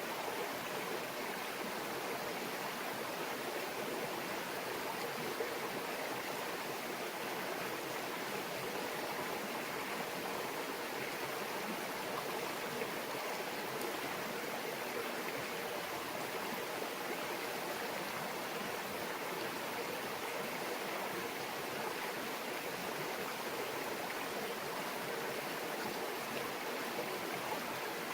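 Small mountain stream murmuring over rocks, a steady even babble of running water.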